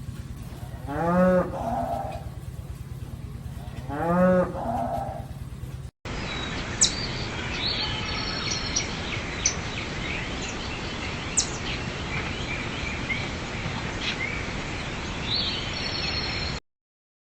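A cow mooing twice, each call short and rising then falling in pitch, over a steady low hum. About six seconds in the sound changes abruptly to small birds chirping over a steady hiss, which cuts off near the end.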